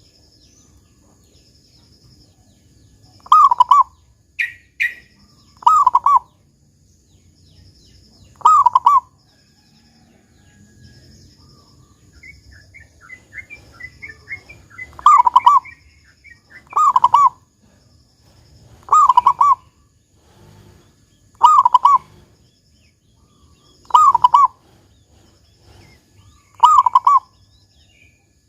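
A zebra dove (perkutut) cooing: short, loud, rolling coos repeated every two to three seconds, nine in all, with a pause in the middle. Fainter, higher chirping from another small bird fills the pause.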